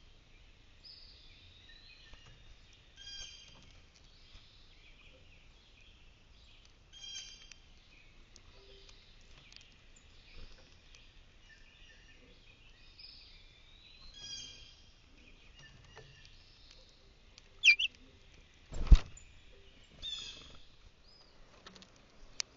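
Small songbirds chirping and calling, short high-pitched calls that repeat every few seconds. A single loud knock comes about three-quarters of the way through, with a couple of sharp clicks just before and near the end.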